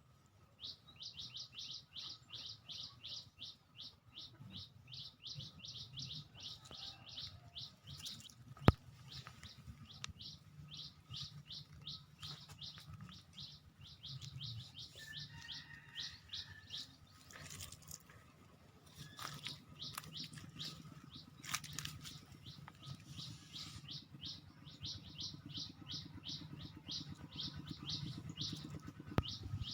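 A small songbird chirping rapidly and repeatedly, about four to five short high chirps a second in long runs broken by brief pauses. A single sharp knock about nine seconds in.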